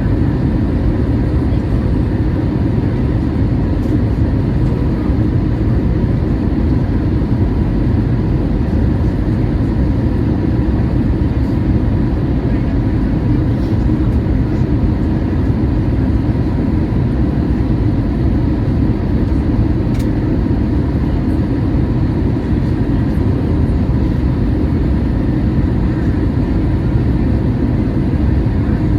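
Boeing 737-800 cabin noise: a steady low rumble from the jet's engines and the air around it, with faint steady tones above it.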